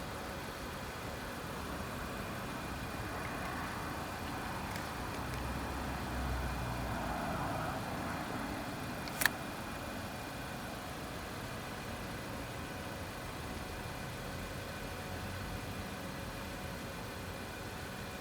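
Steady low hum of a car engine idling, with one sharp click about nine seconds in.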